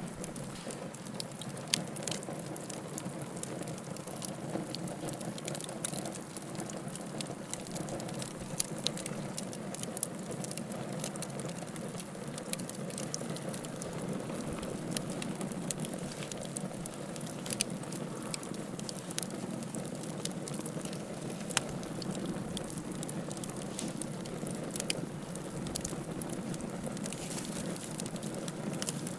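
Wood fire burning in a fireplace, crackling and popping: a steady low rush of flames with frequent irregular sharp snaps of burning firewood.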